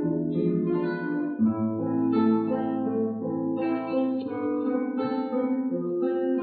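Ensemble of classical guitars playing a slow, lyrical melody over a plucked bass line, several parts sounding together with ringing notes.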